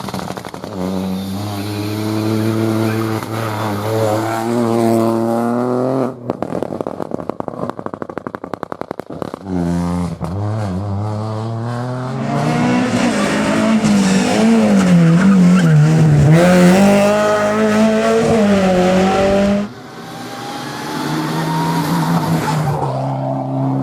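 Rally car engine at full effort on a stage, the note climbing hard with each gear. About six seconds in, a rapid run of pops and crackles comes off the throttle for a few seconds. The car then accelerates again and holds high revs, the pitch wavering, before the note drops sharply near twenty seconds in and climbs once more.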